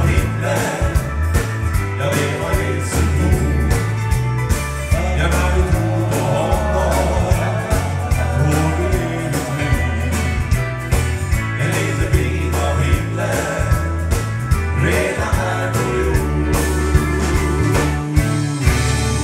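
Gospel-country band music with a steady drum beat, bass and guitar, and voices singing.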